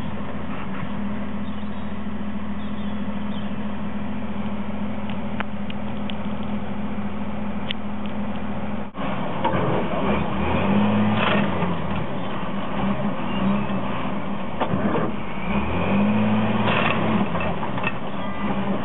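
Heavy diesel machinery engine running steadily. After a brief dropout about nine seconds in, it revs up and down several times as the machine works to pull out a large tree stump.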